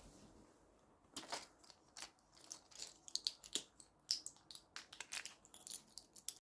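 Crinkly material being handled: a rapid run of sharp crackling and crinkling sounds starts about a second in and stops abruptly.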